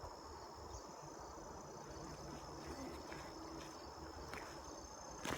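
Steady high-pitched insect trilling, with the faint low buzz of a busy honeybee hive beneath it and a couple of light clicks near the end.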